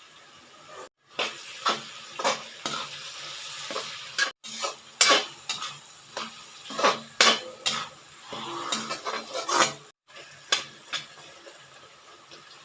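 Crisp, close-up crunching of dry multani mitti (Fuller's earth clay), a dozen or more sharp crunches at an irregular pace. The sound cuts out completely three times for a split second.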